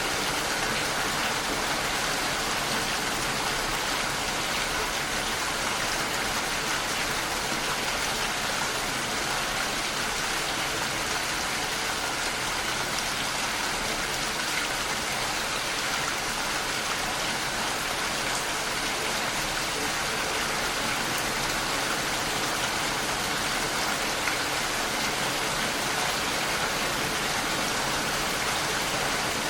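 Rain falling steadily, an even hiss with no breaks or single loud events.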